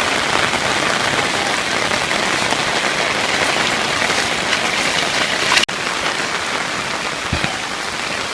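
Rain falling steadily, a dense even hiss, with a brief sharp break about two-thirds of the way through where the recording cuts.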